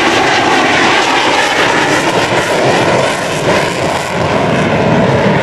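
Grumman F-14 Tomcat's twin jet engines running loud at high power as the fighter flies a low pass, a steady roar that dips slightly about three to four seconds in.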